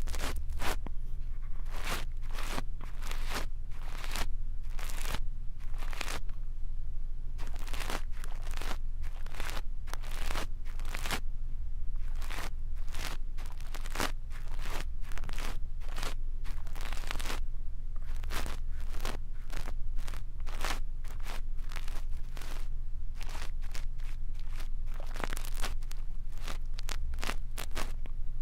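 Brush bristles scratching over a microphone's ear for ASMR ear cleaning: a steady, irregular run of short crunchy scrapes, a few a second, over a low hum.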